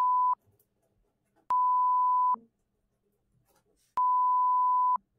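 Censor bleeps: a steady, single-pitched beep tone that ends about a third of a second in, then two more identical beeps of about a second each, starting and stopping abruptly with near silence between them. They mask the client's spoken business address.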